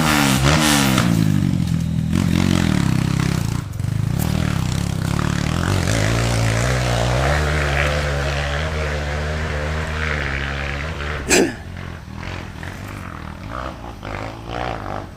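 Dirt-bike engine revving hard, its pitch climbing and dropping repeatedly under load for about eleven seconds. A sudden sharp loud crack comes about eleven seconds in, and after it the sound is quieter.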